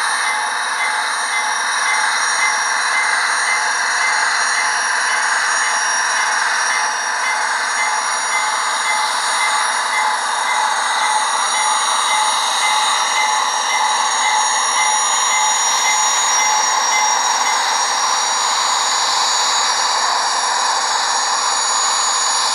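Union Pacific gas turbine sound from an ESU LokSound decoder, played through the speaker of an HO-scale model locomotive: a steady, noisy turbine rush with thin high whining tones and no bass.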